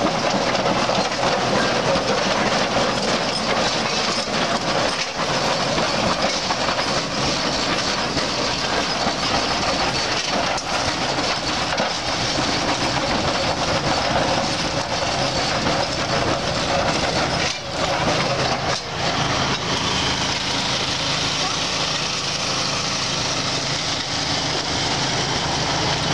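Antique 1890s tractor running as it passes in a parade, its engine and rolling wheels mixed with voices of onlookers.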